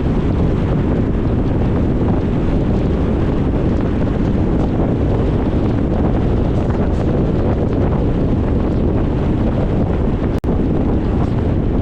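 Steady wind rumble buffeting the microphone of a moving car, with a momentary dropout near the end.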